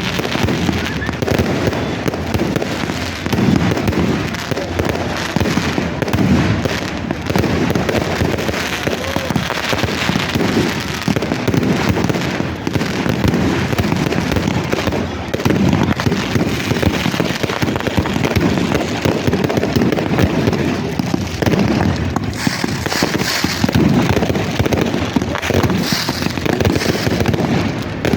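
Fireworks going off in a dense, continuous run of rapid crackles and pops.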